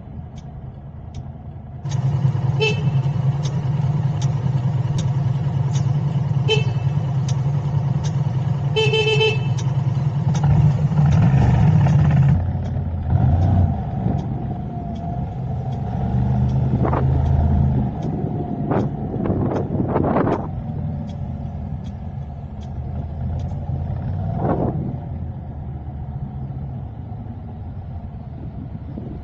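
Car driving in city traffic: steady engine and road noise, with a vehicle horn sounding in three short toots, the last about nine seconds in a little longer.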